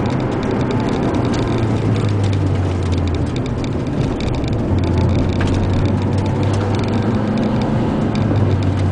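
Car engine running at a steady, easy pace with tyre and road noise, heard from inside the cabin. The engine tone eases off about three seconds in, then picks up again.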